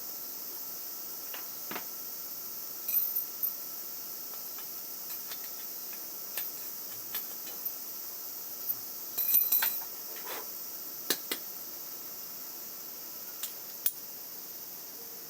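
Hand tools and metal parts clicking and clinking now and then during motorcycle engine-swap work, loudest in a quick cluster about nine seconds in, over a steady high hiss.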